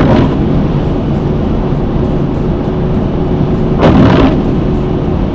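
Steady low road and engine rumble inside a car's cabin during highway driving, with a windshield wiper swishing across the glass about four seconds in.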